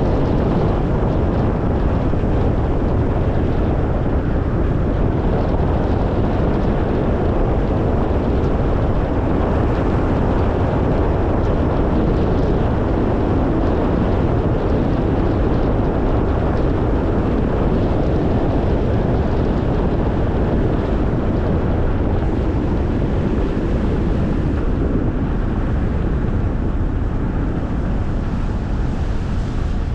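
Steady rumble of a car driving: tyre and road noise with engine hum, mixed with wind noise on the microphone.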